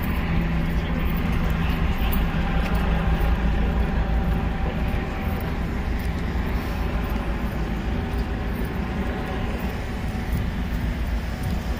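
Steady vehicle noise: a low engine hum with a constant rumbling haze over it, holding level throughout.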